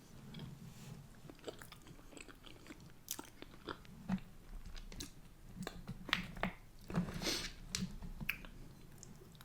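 A person chewing food close to the microphone, with many short wet mouth clicks and smacks; the chewing grows louder about six seconds in.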